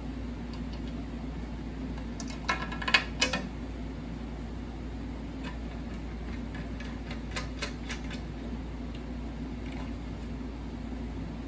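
Sharp plastic clicks and taps of slot-machine push-buttons being handled and fitted into the glass panel: a quick cluster of clicks about three seconds in and a few lighter ones later. A steady low hum runs underneath.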